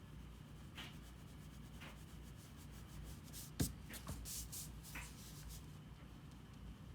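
Drawing tool scratching on paper in short strokes about once a second, with a denser run of scratching and a single sharp tap a little past halfway, over a faint steady low hum.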